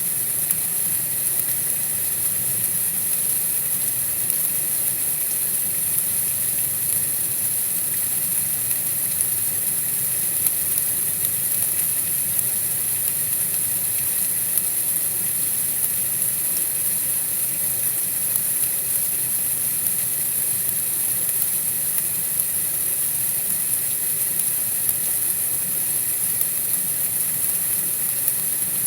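Steady white-noise hiss, strongest in the high treble, unchanging throughout.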